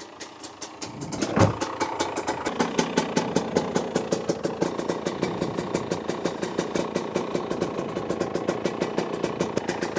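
Husqvarna TE250 two-stroke dirt bike engine idling, with one sharp blip about a second and a half in, after which it idles on steadily and a little louder.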